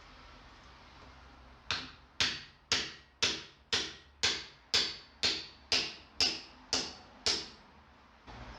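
Hammer striking steel on an anvil twelve times at an even pace of about two blows a second. Each blow rings briefly.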